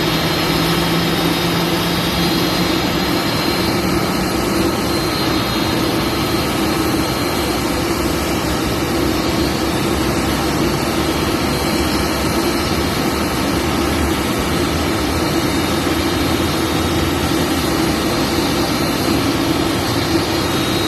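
Steady jet aircraft noise: a continuous broad rush with a thin high whine on top, unchanging throughout.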